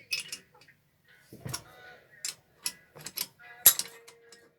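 A series of irregular sharp clicks and knocks from tools and metal engine parts being handled, with one louder knock near the end.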